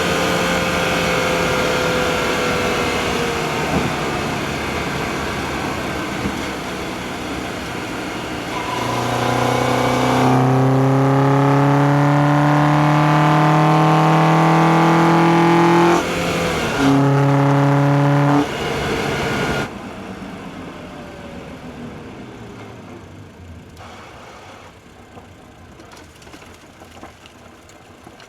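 2004 Acura TSX's K24A2 2.4-litre four-cylinder engine heard through an engine-bay microphone while driving. Its note sinks slowly as the car coasts, then climbs steadily under acceleration from about nine seconds in, breaks off for a gear change, pulls briefly again, and drops off near twenty seconds as the throttle closes, fading as the car slows.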